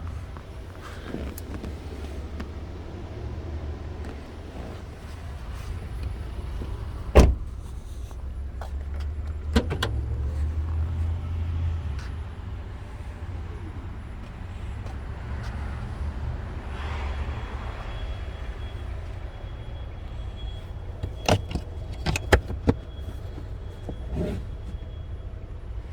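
A steady low rumble with scattered sharp clicks and knocks of car fittings being handled, a few at a time, the loudest about seven seconds in and a cluster near the end; a faint steady high tone runs through the second half.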